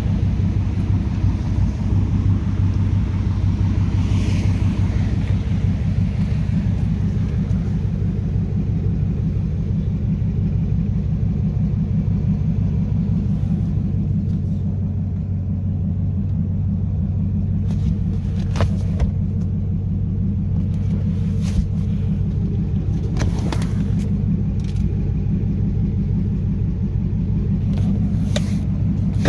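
2010 Dodge Charger SRT8's 6.1-litre Hemi V8 idling steadily through a loud modified exhaust, a deep, even rumble. A few short clicks or taps come through in the second half.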